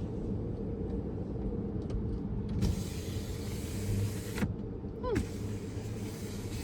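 Electric motor of the truck's power-sliding rear window running with a steady low hum. Two stretches of hiss come over it, starting about two and a half seconds in and again about five seconds in.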